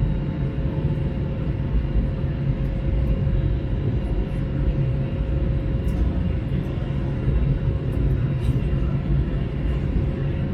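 Steady low rumble of an Airbus A321's engines and airflow heard inside the passenger cabin, with a thin steady hum above it.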